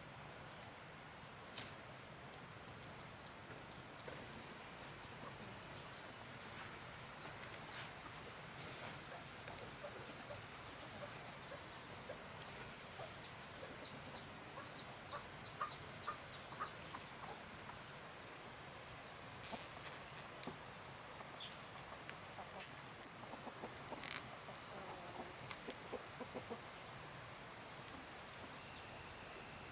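Steady high drone of insects such as crickets, with chickens clucking now and then. A cluster of sharp clicks comes about two-thirds of the way in.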